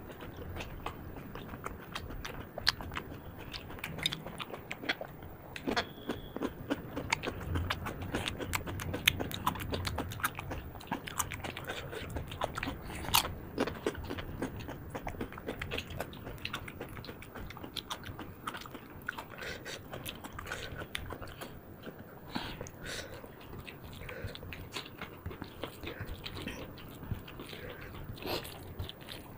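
Close-up eating sounds of two people eating rice and chicken curry by hand: chewing and wet mouth smacks, with many small irregular clicks throughout.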